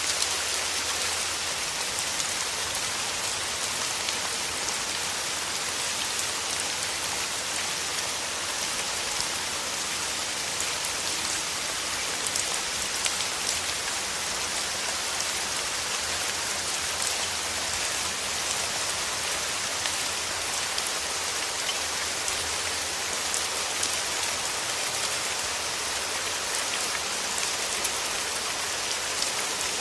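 Steady rain, a dense, even patter of drops with faint individual ticks.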